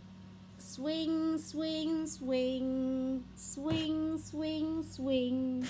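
A woman singing a short, slow tune of about six held notes, with a faint steady hum underneath.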